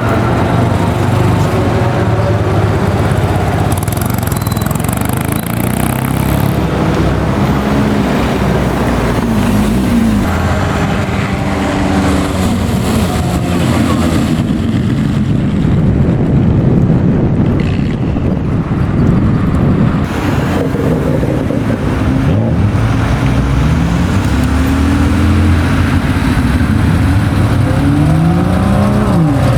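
Engines of classic cars revving and driving past one after another, their pitch climbing and dropping repeatedly. Near the end one car passes close, its engine pitch rising sharply and then falling away.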